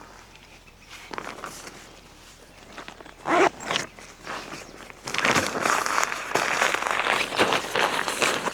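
Rustling and handling noise, like tent fabric and a zipper being moved about. There is a brief louder burst about three seconds in, then denser, continuous rustling from about five seconds on.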